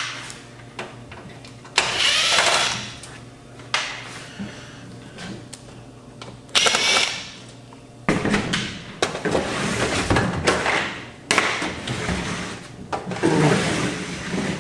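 Cordless impact driver in screwdriver mode, run in short bursts to back out the screws of an AV receiver's metal case. There are bursts about two seconds in and about seven seconds in, then a busier stretch of driver runs mixed with clicks and metal clatter.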